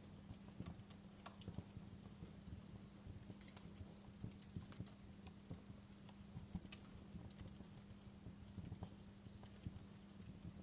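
Wood fire burning in a fireplace, crackling with faint irregular pops and snaps, over a steady low hum.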